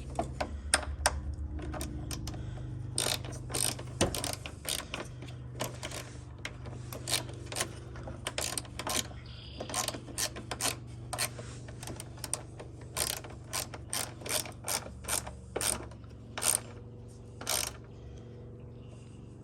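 Hand ratchet clicking in short, irregular runs of strokes as it drives a collared screw into a plastic headlight mounting.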